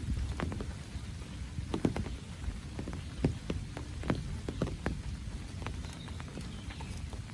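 Rain falling steadily, with large drops landing close by as irregular sharp taps, a few louder ones scattered through.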